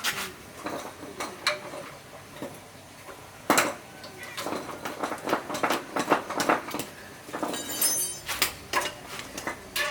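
Metal tools and small metal parts clinking and knocking in irregular strokes, with one sharp knock about a third of the way in and a brief ringing metallic sound near the end.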